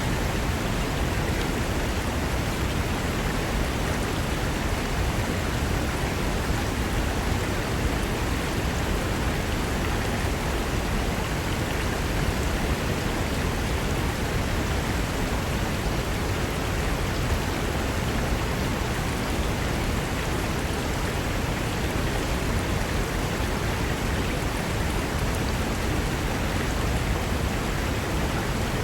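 Fast mountain river rushing over rocks: a steady, even roar of water.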